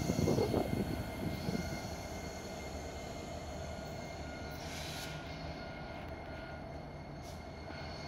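Freight train rolling away along the tracks: its wheels clatter over the rails for the first second or so, then fade to a low, steady rumble.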